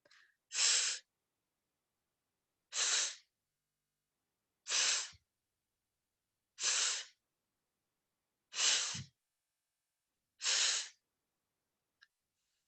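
A woman voicing the letter-sound /f/, a breathy "fff" hiss made with the teeth on the lower lip, six times at a steady pace of about one every two seconds.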